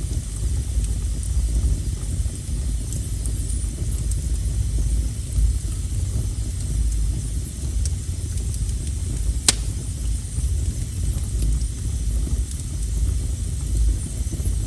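Wood fire burning with a steady low rumble, a few faint crackles and one sharp pop about two-thirds of the way through.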